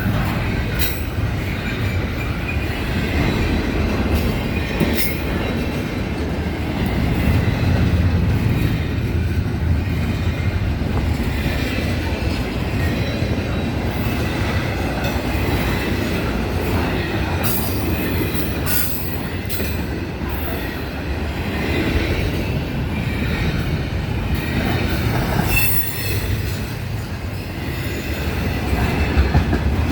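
Florida East Coast Railway train rolling past: a steady rumble of rail cars with scattered clicks from the wheels on the rail joints and faint intermittent wheel squeal.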